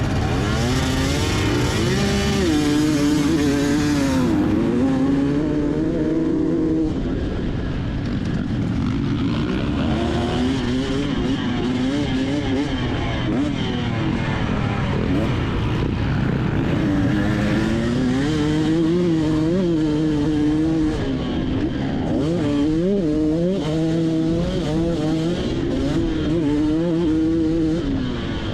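Two-stroke motocross bike's engine revving up and down, its pitch rising and dropping again and again as the throttle opens and closes, heard from on board the bike.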